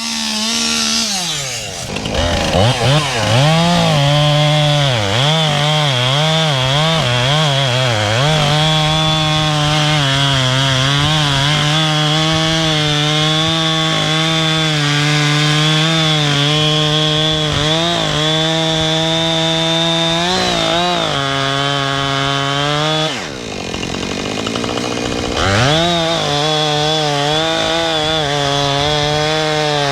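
Husqvarna two-stroke chainsaw cutting wood at full throttle, its engine pitch dipping again and again under load. About 23 seconds in it drops to a low idle, then revs back up about two seconds later and keeps cutting.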